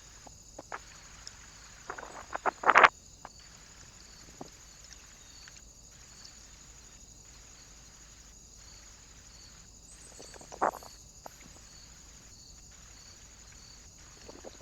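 Short scratching and tapping sounds of an animal at a bird feeder: a cluster about two to three seconds in, the loudest near the end of it, and one more near eleven seconds. Under them runs the steady hiss of the trail camera's microphone.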